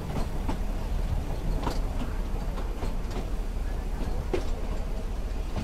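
Nilgiri Mountain Railway carriage running along its metre-gauge track, heard from the open window: a steady low rumble with a few irregularly spaced sharp clicks and knocks from the wheels and running gear.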